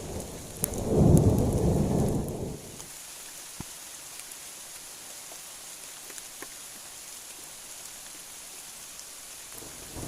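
A roll of thunder rumbling for about two seconds, starting about a second in, over steady heavy rain with scattered drop ticks.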